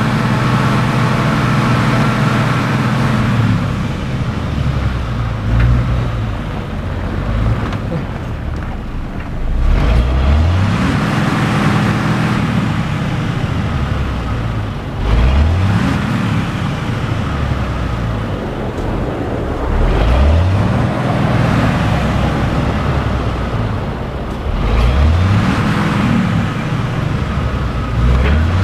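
Car engine and road noise heard from inside a moving car, with the engine note rising in pitch about every five seconds.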